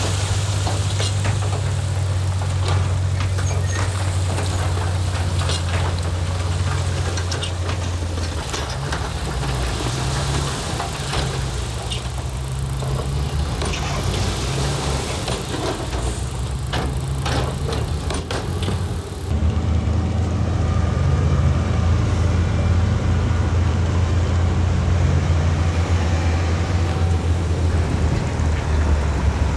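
Heavy diesel earthmoving machinery running with a steady low engine drone and frequent clanks and rattles. About two-thirds of the way through, the sound changes abruptly to a steadier engine drone with fewer clanks.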